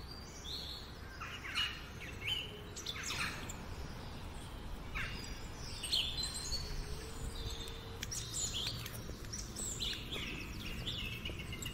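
Songbirds chirping and calling, short sharp notes every second or so, over a low steady background rumble.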